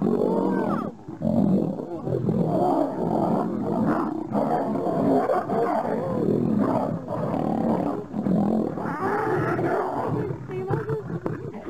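Male lions roaring and snarling as they fight, the calls running on one into the next without a break.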